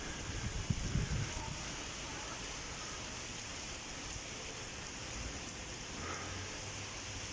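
Heavy rain falling, a steady hiss of rain on hard surfaces, with a few low thumps in the first second.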